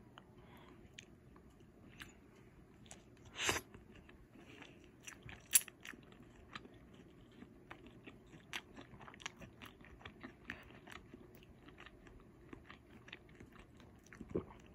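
A person chewing a bite of breaded chicken strip up close, with many small crisp crackles throughout. There is a louder crunch about three and a half seconds in, a sharp click about five and a half seconds in, and a low thump near the end.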